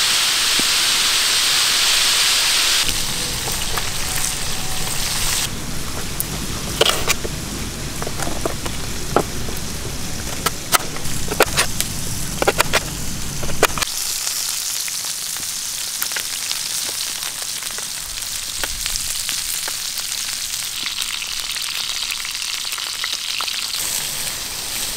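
Food sizzling in hot oil in a pan, loudest in the first three seconds. Sharp clicks and knocks come at intervals between about 6 and 14 seconds in.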